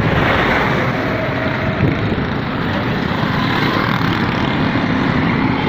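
Steady, loud road noise from traffic or a moving vehicle, with engine and tyre sound and no clear rhythm.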